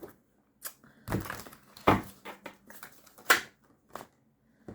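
A handful of short, sharp taps and rustles spread over a few seconds, tarot cards being handled and laid down on a table.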